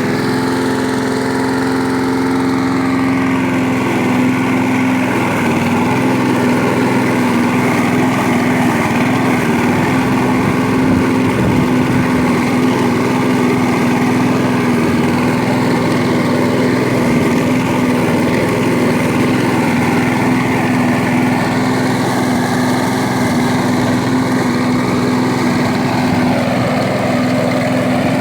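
Small petrol engine of a grass-cutting machine running steadily, with a strong even hum that changes slightly near the end.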